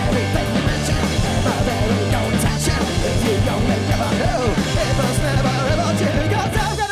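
Live rock band playing loud music: sustained low bass notes under wavering pitched lines, in a punk or noise-rock style.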